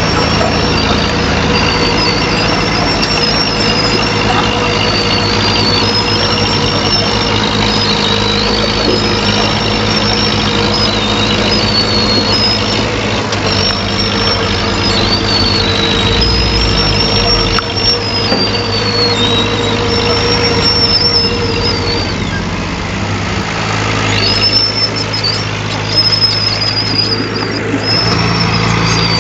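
Heavy diesel earthmoving machine engine running steadily, with a high-pitched squeal rising and falling every second or two.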